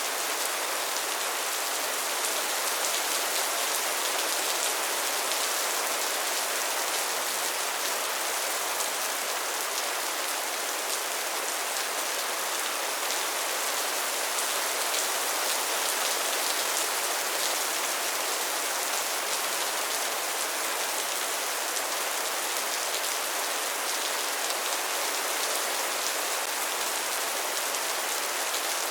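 Steady rainfall, a dense even hiss of drops landing on a surface with fine individual drop ticks, with no let-up.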